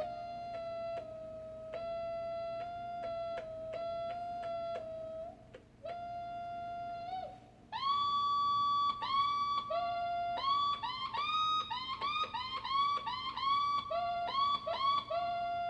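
Electric guitar played through an older wah pedal wired in reverse (guitar into the pedal's output, amp into its input), giving a seagull-like squeal. A held tone that breaks off now and then gives way, about halfway, to quick repeated notes that each swoop up in pitch.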